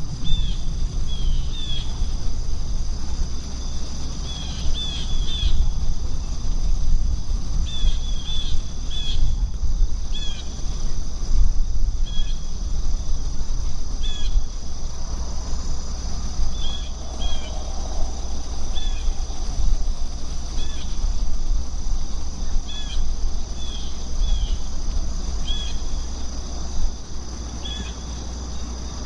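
Insects trilling in a steady high drone, with a small bird's short chirps repeating irregularly about once a second, over a steady low rumble.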